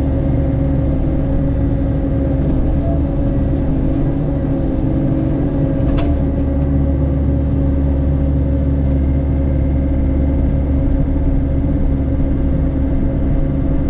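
Mini excavator's engine and hydraulic brush cutter head running steadily, a constant low rumble with a steady hum. A single sharp click about six seconds in.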